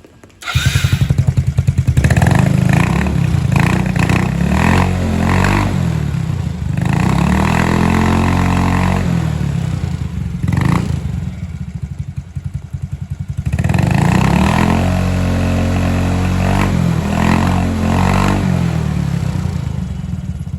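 Yamaha Nouvo scooter engine running through a newly fitted short custom exhaust. It starts up about half a second in and is revved up and down twice, dropping back to a lower idle in between.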